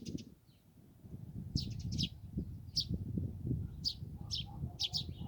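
Small songbirds chirping in short bursts of quick, high notes, several clusters a second or so apart, over a steady low rumbling background.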